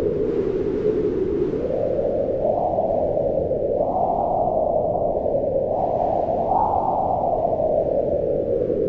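Wind howling in a continuous rush whose pitch slowly swells up and sinks back, rising highest in the middle and easing lower near the end.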